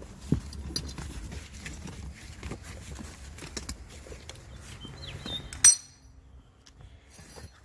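Small metallic clicks and knocks from hand tools and loose metal parts being handled. About two thirds of the way through there is one loud, sharp ringing clink of metal on metal.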